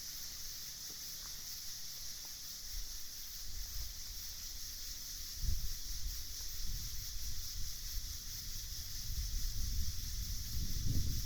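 Night ambience: a steady, high, unbroken chorus of night insects, with wind rumbling on the microphone in low gusts that build from a few seconds in and are loudest near the end.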